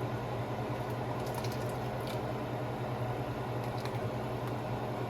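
Steady low mechanical hum from a running appliance motor, with a few faint light clicks on top.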